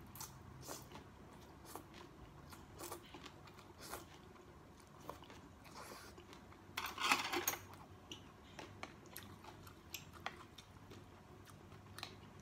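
Close-up chewing and mouth sounds of a person eating soup vegetables and rice: soft scattered wet clicks and smacks, with a louder burst of chewing about seven seconds in.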